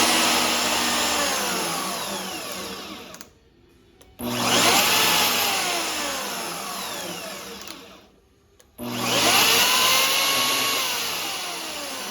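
Hercules portable bandsaw running with no blade load, three times: each time the motor spins up quickly, then winds down with falling pitch over a few seconds. It falls quiet about three seconds in and again about eight seconds in before each restart.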